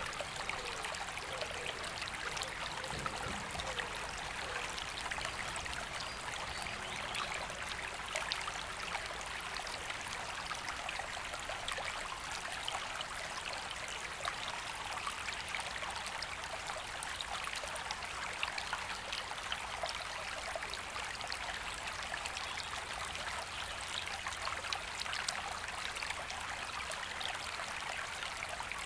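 A woodland river running steadily: an even rush of water with fine splashing and bubbling throughout.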